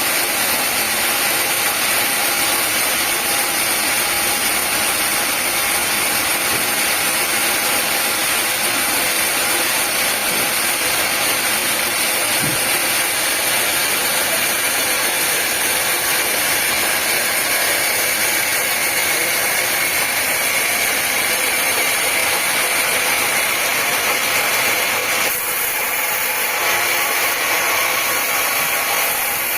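Sawmill machinery running steadily, a continuous mechanical whir and hiss, with a slight change in tone near the end.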